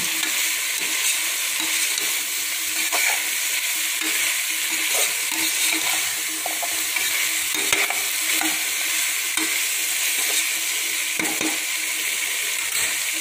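Chopped mixed vegetables frying in oil in a metal pot, with a steady sizzle as a perforated metal spatula stirs them. A few light clicks and scrapes of the spatula against the pot come through the sizzle.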